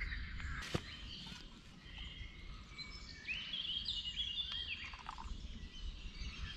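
Woodland birds chirping and singing over a low steady background rumble, with one sharp click about a second in.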